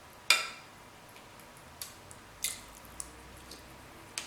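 King crab legs in a sauce-covered seafood boil being handled and broken open: a series of sharp, wet clicks and snaps of shell, the loudest about a third of a second in, followed by four fainter ones.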